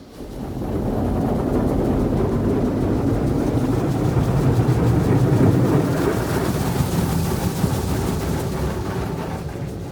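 High-pressure water spray from a touchless automatic car wash blasting against the car, heard from inside the cabin as a loud rushing rumble strong enough to shake the car. It comes on suddenly, swells, then eases toward the end.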